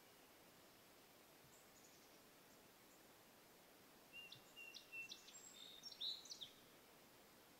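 Faint outdoor hiss, then a songbird sings a short song of high chirps and whistled notes about four seconds in, lasting about two seconds.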